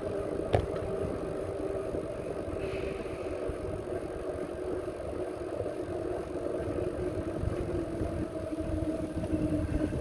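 Bicycle riding along a path: a steady hum of tyres and drivetrain under heavy wind rumble on the microphone, with one sharp click about half a second in. The hum drops slightly in pitch near the end.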